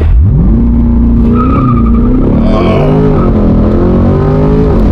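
Stock C8 Corvette Stingray's 6.2-litre V8 launching hard from a standstill for a 0-60 run, heard from inside the cabin. The revs shoot up at the start, then the engine pulls steadily, with short dips in pitch at the quick dual-clutch upshifts.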